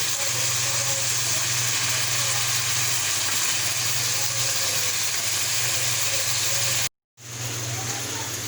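Cubed chicken frying in hot oil over a high flame: a steady sizzling hiss with a low hum underneath. It cuts out for a moment about seven seconds in, then resumes slightly quieter.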